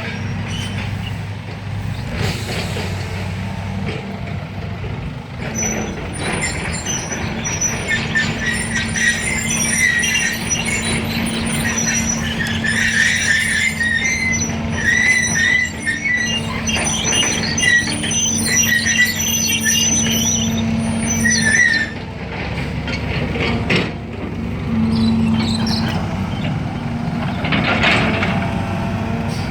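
Heavy diesel machinery running steadily, with a long stretch of high-pitched, wavering squealing and chirping from about six seconds in to about twenty-two seconds in.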